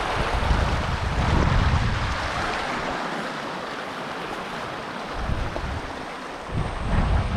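Steady rushing water with wind buffeting the microphone. The low gusty rumble eases off about halfway through and picks up again near the end.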